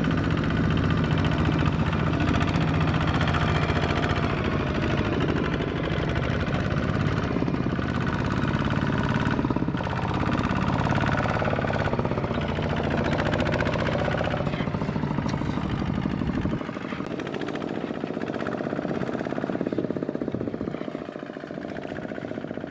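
Single-cylinder diesel engine of a two-wheel walking tractor running hard with a rapid knocking beat. About three-quarters of the way through, its deep low note cuts away abruptly and a thinner, quieter sound carries on.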